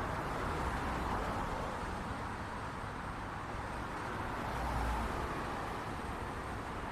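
City street traffic: a steady wash of passing cars and tyre noise, with a low engine rumble that swells about five seconds in as a vehicle goes by.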